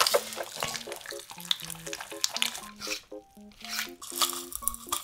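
Close-miked wet chewing and squishing of firm, bouncy jelly in the mouth, with many sticky smacking clicks and a short pause a little past the middle, over light background music of plucked short notes.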